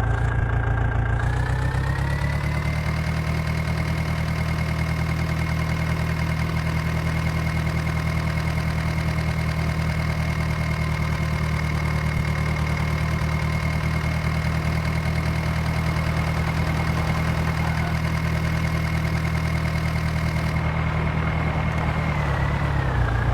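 Diesel engine of the earthmoving machinery running, speeding up over the first few seconds, holding a steady higher speed, then easing back down near the end.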